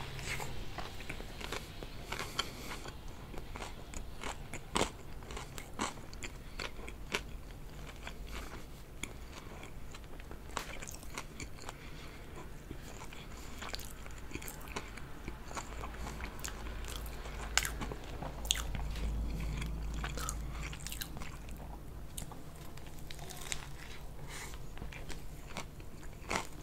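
Biting into and chewing an extra-crispy fried chicken sandwich close to the microphone: many sharp crunches of crisp breading, with wet chewing between them.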